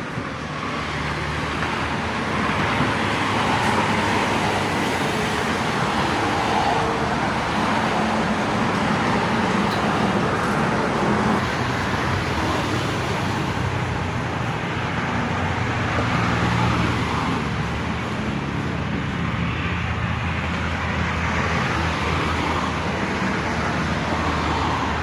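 Electric polisher running steadily with its pad buffing a plastic car headlight lens.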